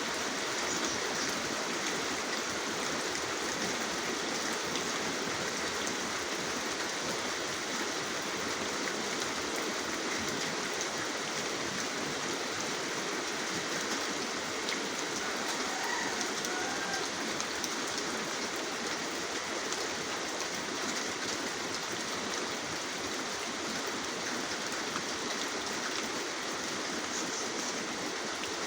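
Steady rain falling, a dense, even hiss of drops with no change in strength.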